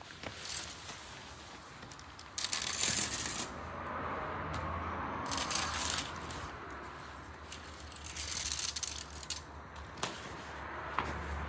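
Bursts of rattling and rustling from objects being handled, three longer bursts a couple of seconds apart with a few sharp clicks between them.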